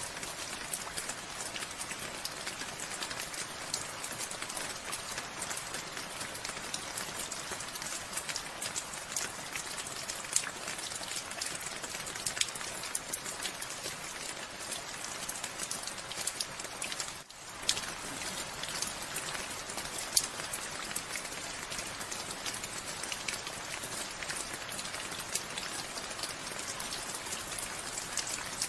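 Steady rain falling, a continuous hiss dotted with many distinct drop hits. The sound dips briefly about two-thirds of the way through, then carries on as before.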